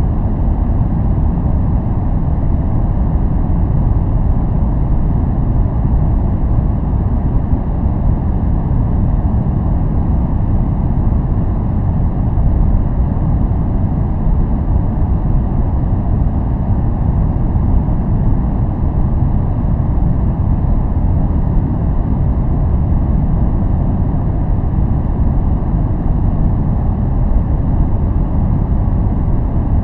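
Steady noise track sold as white noise for focus. It plays as an even, unchanging deep rush, heavy in the low end with little high hiss, so it sounds more like brown noise than true white noise.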